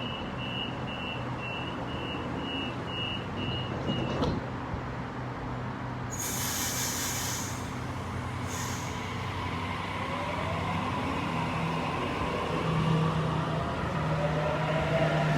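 Sydney Trains Waratah (A set) electric train at the platform: door-closing warning beeps, about two a second for four seconds, ending in a sharp clunk as the doors shut. Then a hiss of air from the brakes, twice, and a rising whine from the traction motors as the train starts to pull away over a steady low hum.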